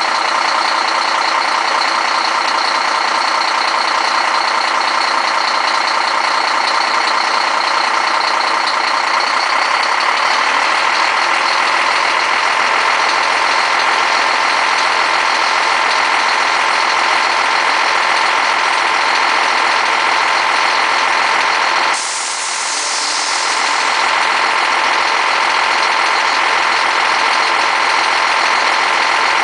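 Scania DC12 06 Euro 3 inline-six diesel engine of a Scania G420 truck running steadily, with a short hiss about two-thirds of the way through.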